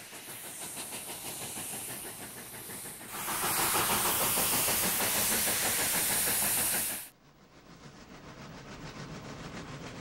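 Steam locomotive releasing steam: a hiss that grows louder and brighter about three seconds in and cuts off suddenly about seven seconds in, followed by quieter running-train noise with a fast, even clatter.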